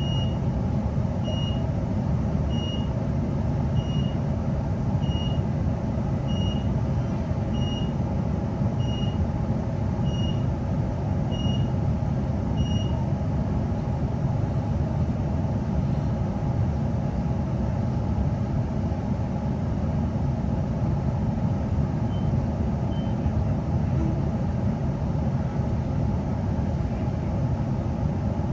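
Inside an NGR electric passenger train: a high electronic door warning beep repeating about every second and a quarter, stopping about 13 seconds in, over the steady low rumble of the train.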